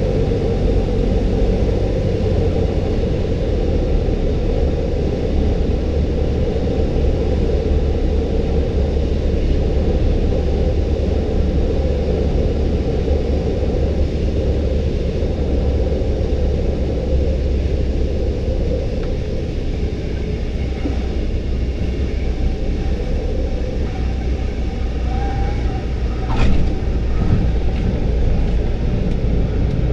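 Cessna 172's four-cylinder piston engine and propeller running steadily, a loud low drone that eases slightly about nineteen seconds in. About twenty-six seconds in there is one short, sharp knock.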